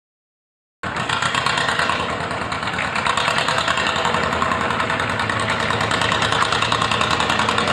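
Tractor engine running with a rapid, even beat, the sound cutting in abruptly about a second in.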